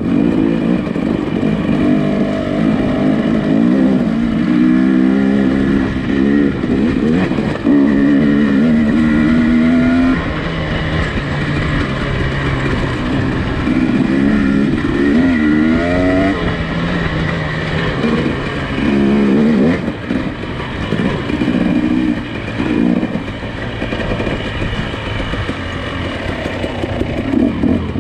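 Nissan Pathfinder SUV engine pulling at low speed on a rough off-road trail, its pitch rising and falling as the throttle is worked, with a sharper rev about halfway through.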